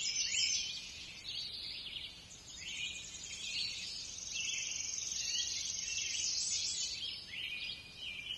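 Songbirds singing, short chirping phrases repeating over and over and overlapping, with a steady high-pitched trill through much of the time.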